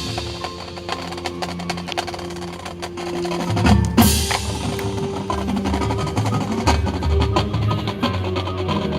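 Percussion-led ensemble music: quick drum and wood-block strikes over held sustained tones, growing louder with strong hits about three and a half and four seconds in.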